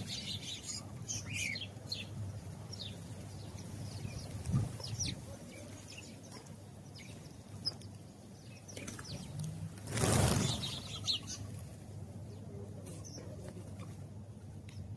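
House sparrows chirping in short, scattered calls. About ten seconds in there is a brief loud rushing noise.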